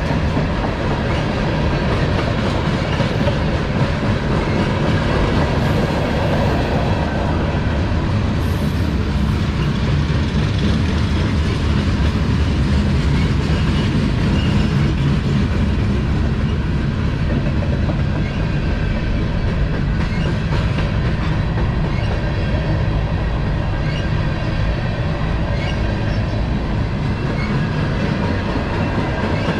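CSX manifest freight train's cars rolling past, a steady, unbroken noise of steel wheels on the rails.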